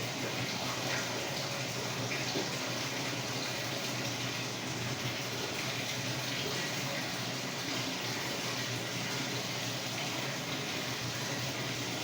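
Samsung WA45T3200AW top-load impeller washer running mid-cycle: a steady rush of water in the tub over a low, even hum.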